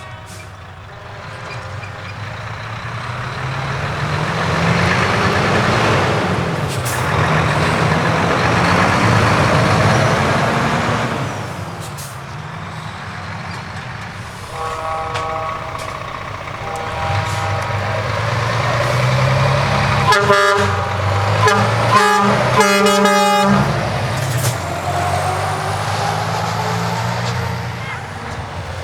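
Heavy trucks driving past with loud open exhaust pipes, the engine note rising and falling as they pass. About halfway through a truck air horn sounds a held chord, and a few seconds later a quick run of short horn blasts.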